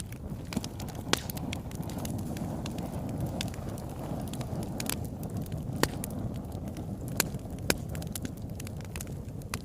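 Fire in a fireplace crackling: a steady low rush of flame under frequent sharp pops and snaps, four of them louder than the rest.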